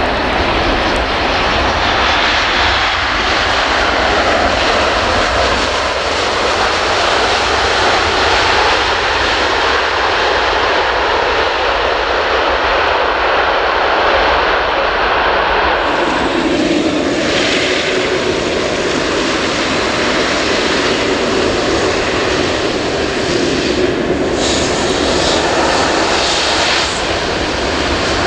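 Boeing 787-9 jet engines running loud and steady. About 16 seconds in the sound changes abruptly to a second, equally loud stretch of 787-9 engine noise.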